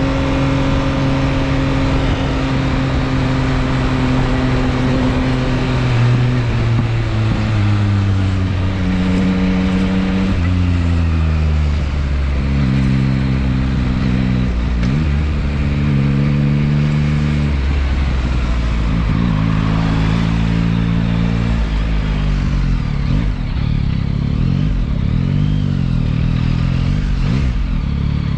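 Yamaha XSR900's three-cylinder engine heard from the motorcycle as it rides through slow traffic: the revs fall over the first ten seconds, hold steady through a few gear changes, then rise and fall in short throttle blips near the end.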